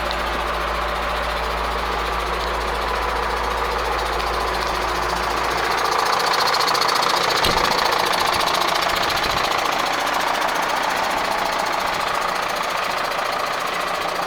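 Zetor Proxima 90 Plus tractor's diesel engine running steadily, a little louder from about six seconds in.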